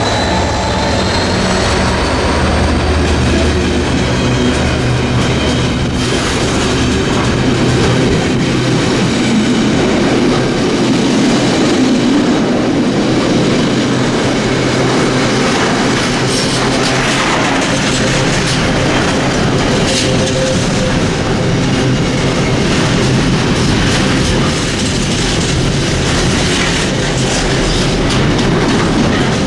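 A Freightliner Class 66 diesel-electric locomotive (EMD two-stroke V12) hauling a long container freight train passes close by. The locomotive's engine and a rising whine are heard in the first few seconds. Then the container wagons roll by with a steady, loud rumble, and the wheels click now and then over rail joints.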